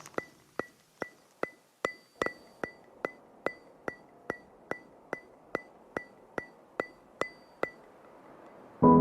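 Background music: a steady, clock-like ticking at about two and a half ticks a second, each tick with a short high ring. The ticking stops near the end, and soft keyboard music comes in just before the end.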